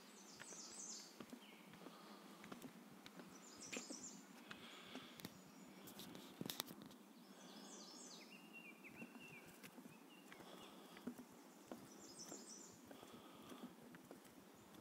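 Quiet woodland ambience: a songbird repeats a short, high chirping phrase every three to four seconds, with faint scattered footsteps and rustles.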